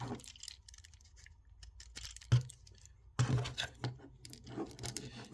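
Small clicks and scrapes of a plastic action figure and its axe accessory being handled and fitted into the figure's hand, with a denser run of handling noise about three seconds in.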